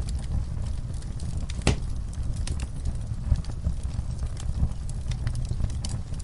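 Fire crackling in a fireplace: irregular sharp pops and snaps over a low steady rumble, with one louder pop a little under two seconds in.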